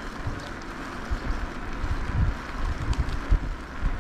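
Wind buffeting the microphone of a camera riding along on a moving e-bike: a steady rush of air with irregular low gusty thumps, heaviest in the second half.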